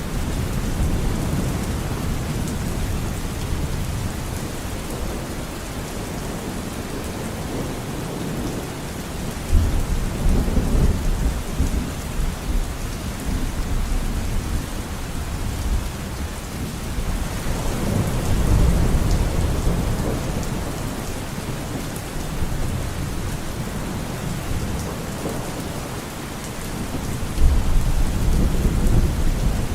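Steady rain falling on a forest, a constant hiss of drops, with thunder rumbling low three times: a sudden rumble about a third of the way in, a longer rolling one just past the middle, and another sudden one near the end.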